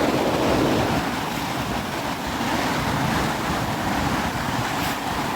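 Ocean surf washing in at the water's edge, a steady rushing wash, with wind buffeting the microphone.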